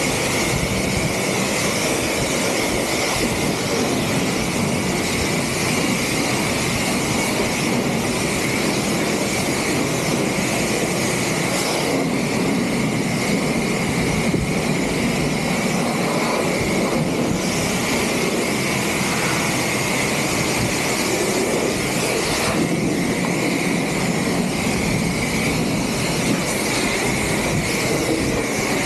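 Steady, loud rushing noise with a high hiss that holds level throughout.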